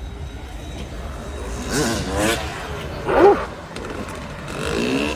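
A motorcycle engine running, revving up and down a few times, with people's voices mixed in.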